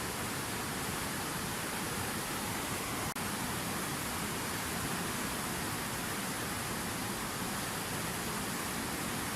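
Water falling steadily from a fountain cascade, an even rushing noise, broken by a split-second dropout about three seconds in.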